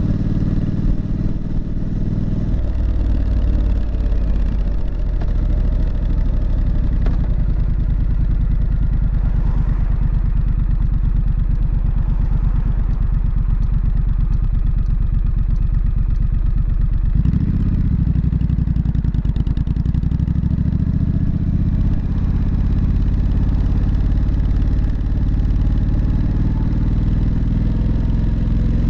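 Triumph Street Scrambler's 900 cc parallel-twin engine and exhaust running steadily. The engine note drops about two seconds in, then changes again and rises and falls around two-thirds of the way through as the throttle and revs change.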